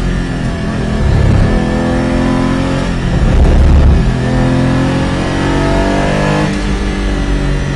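Porsche Cayman GT4's 3.8-litre flat-six engine heard from inside the cabin through a slow corner, with a heavy low rumble about three seconds in. From about four seconds on its pitch rises as the car accelerates out, then rises again.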